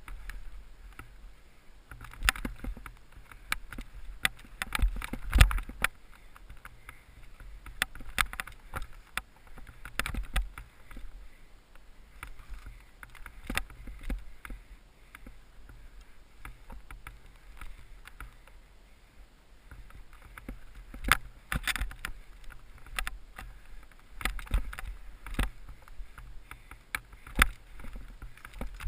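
Skis swishing and scraping through powder snow in a run of irregular turns, over a steady low rumble.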